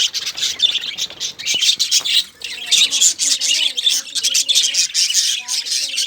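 A group of cockatiels chirping and squawking without a break, many short calls overlapping into a dense chatter.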